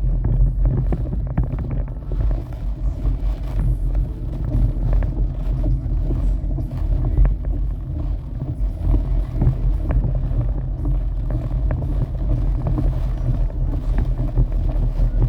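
Storm wind buffeting the microphone: a loud, steady low rumble with scattered faint ticks.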